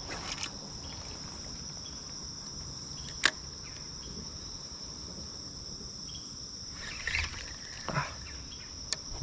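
Steady high-pitched insect chorus, with one sharp click about three seconds in and a few short scuffs near the end.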